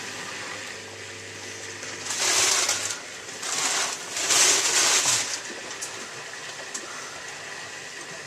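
Miele W3744 washing machine during a sudsy rinse: a steady low hum that stops about three seconds in, and three loud surges of rushing water between about two and five seconds in.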